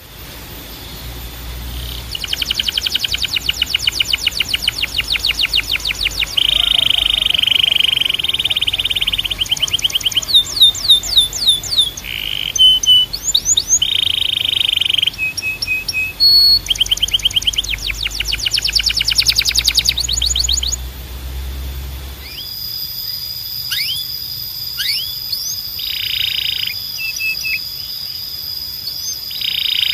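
Canary singing: rapid rolling trills, held whistled notes and quick rising and falling sweeps, loud and high-pitched. About two-thirds through, the song goes on over a different background with a steady high tone behind it.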